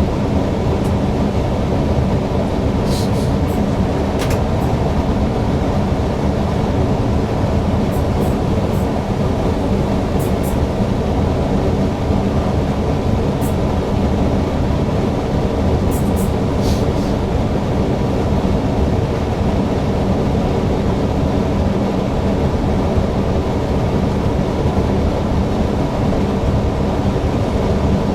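Newag Impuls EN63 electric multiple unit running on the line, heard from the driver's cab: a steady rumble with a hum of several steady tones, and a few brief, faint high squeaks.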